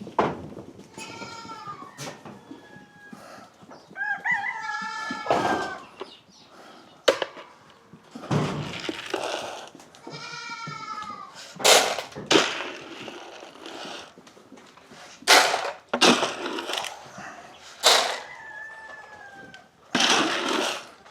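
Goats bleating several times, with sharp knocks and clatters in between.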